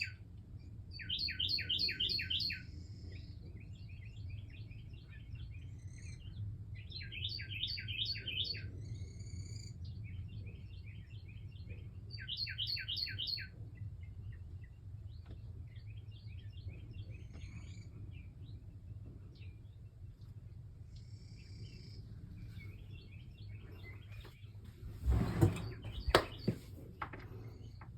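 A songbird singing loudly, repeating a phrase of rapid sharp notes about every five seconds, with fainter chirps from other birds in between. A few dull thumps come near the end.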